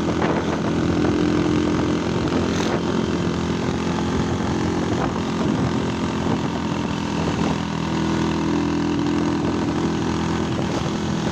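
Vehicle engine running steadily while driving, with road and wind noise. The engine hum grows a little stronger about a second in and again near the end.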